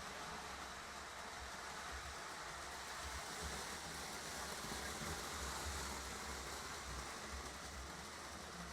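Lionel electric model trains running around the layout: a steady rumbling whir of wheels and motors on the track, swelling a little midway.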